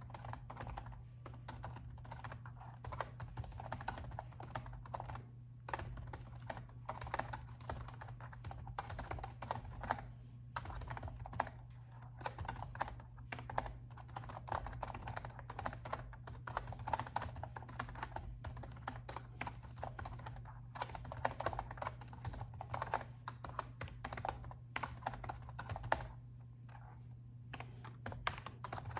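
Typing on a laptop keyboard: quick runs of key clicks broken by brief pauses, over a faint steady low hum.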